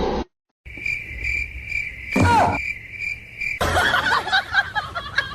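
Insects chirping steadily at a high pitch, with one short sharp sound with a falling pitch about two seconds in. Near the end it gives way to a busier stretch of short rising and falling calls.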